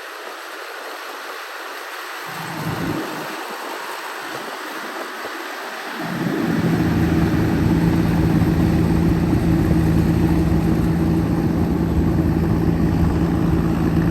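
Rotary tiller tractor's engine running at a steady speed, heard at first only as a hiss, then from about six seconds in coming up loud with a steady, even hum.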